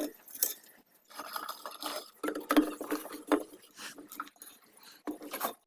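Irregular knocks, scrapes and rubbing of things being handled, coming in short clusters with brief pauses between them.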